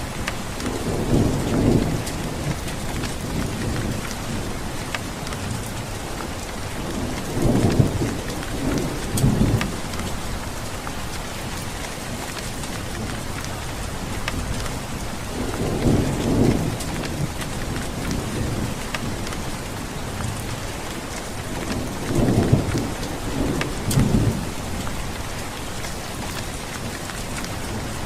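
Steady rain falling, with thunder rumbling low four times, each rumble lasting a second or two and coming roughly every seven seconds.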